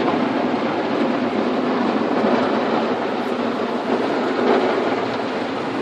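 Automatic car wash scrubber brushes and water spray working over the car, heard from inside the cabin as a steady, dense rushing and rumbling.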